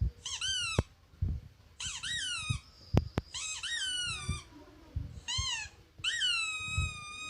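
Squeaky-toy ball sound played from a mobile phone: a series of about five high squeaks, each rising then falling in pitch, the last one drawn out longer. Soft low knocks come between the squeaks.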